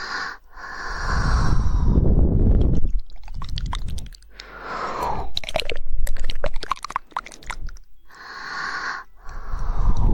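Close-miked ASMR mouth sounds: rapid wet tongue clicks and mouth clicks in dense runs, strongest in the middle, alternating with breathy air sounds right on the microphone.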